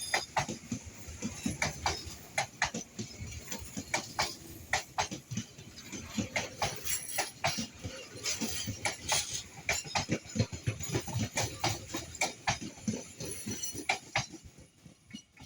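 Passenger train's wheels clacking over rail joints: quick, irregular knocks over a low rumble, dying away near the end.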